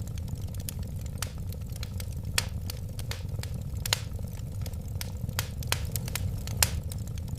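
Wood fire burning: irregular sharp crackles and pops over a steady low rumble of flames.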